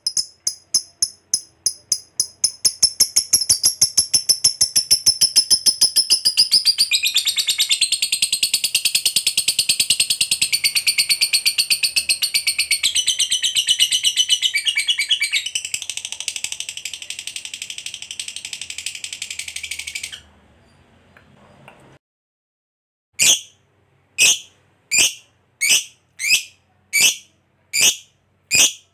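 Lovebird in its long chattering 'ngekek' song: quick high chirps run together into an unbroken trill lasting about seventeen seconds, which stops suddenly. After a short pause come separate sharp chirps, about one a second.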